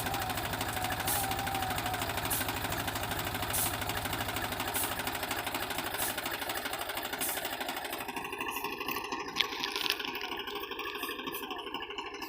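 Swaraj tractor's diesel engine running steadily with a rhythmic knocking clatter. About eight seconds in, the sound turns duller as the high end drops away.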